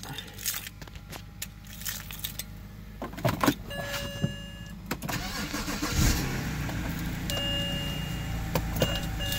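A 2006 BMW 3 Series cold start: keys and clicks, then the engine cranks and catches about six seconds in and settles into a steady idle. Repeated electronic beeping tones sound before and after it fires.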